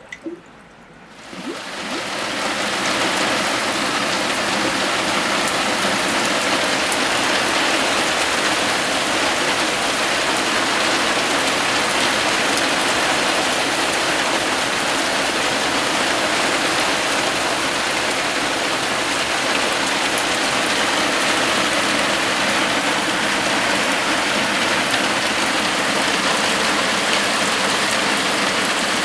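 Heavy summer downpour, rain pouring down steadily. It fades in during the first two seconds.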